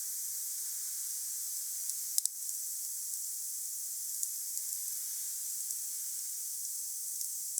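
Wood fire burning: a steady hiss with a few sharp crackles and pops, the loudest cluster about two seconds in.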